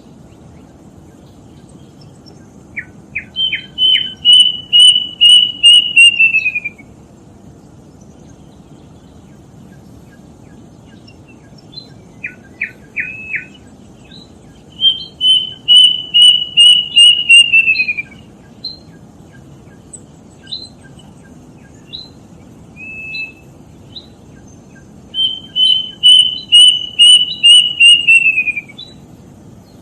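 Kedasih cuckoo singing three songs about ten seconds apart. Each song opens with a few short notes, then runs into a quick series of about ten clear whistled notes that slide down in pitch at the end. A few single short notes come between the songs.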